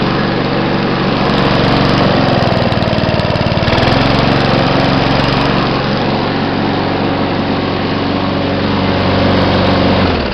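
3.5 hp Briggs & Stratton Classic four-stroke lawn mower engine running steadily at open throttle, warming up after a cold start; it dies away right at the end as it is shut off.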